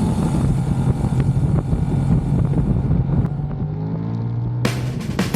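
Motorcycle engine running under way, its pitch rising near the end as it accelerates, with wind noise on the microphone; sudden bursts of noise come in just before the end.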